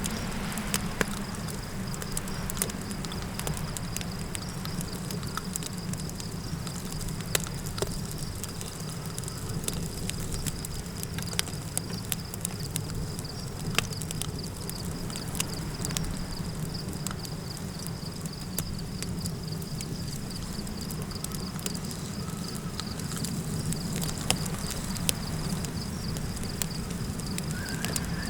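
Campfire crackling, with frequent sharp pops and snaps over a steady low rumble of wind. A steady high insect trill runs underneath.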